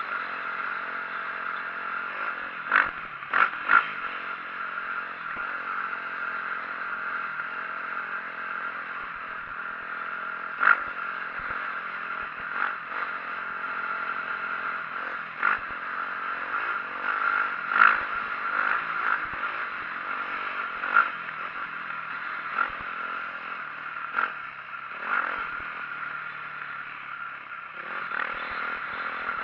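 2004 Yamaha YZ450F dirt bike's single-cylinder four-stroke engine running steadily while riding, with sharp clattering knocks every few seconds.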